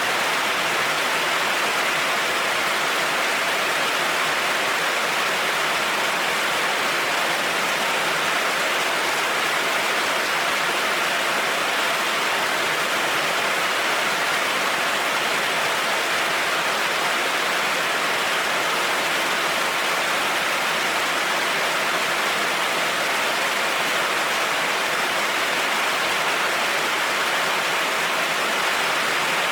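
Heavy rain falling steadily on a road, an even, unbroken hiss.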